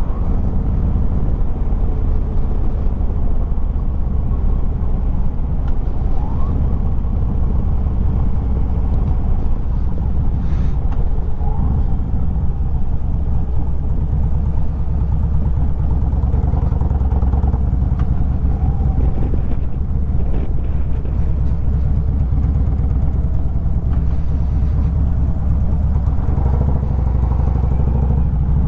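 Harley-Davidson Road Glide's 103 cubic-inch V-twin running steadily at low revs, with an even low pulse.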